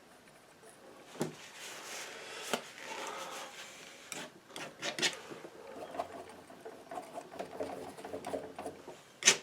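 Palette knife scraping and tapping on a palette or canvas while working oil paint: scrapes with a few sharp clicks, and two loud clicks near the end.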